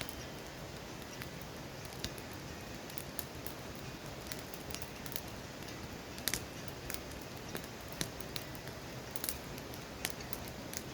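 Firewood burning in a campfire: a steady hiss with irregular sharp crackles and pops.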